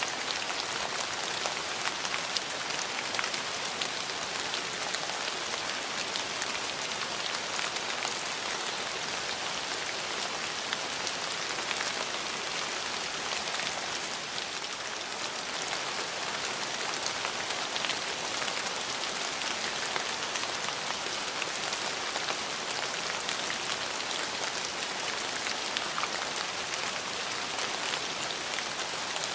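Steady rain falling on a hard surface, a dense even hiss with many small drop ticks.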